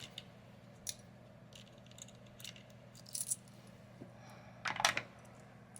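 Savings chips and dice clicking as they are handled and set down: scattered light clicks, with a louder clattering cluster about five seconds in.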